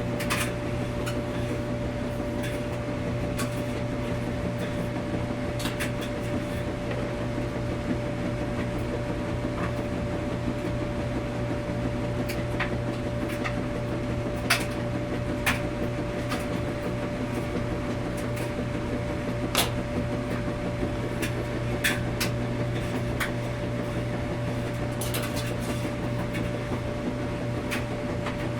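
Washing machine running steadily with a low hum and a constant higher tone, and scattered light clicks and knocks at irregular intervals.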